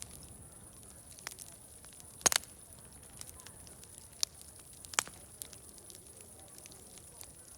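Wood fire crackling: irregular sharp pops and snaps, the loudest a double snap about two seconds in, over a steady high hiss.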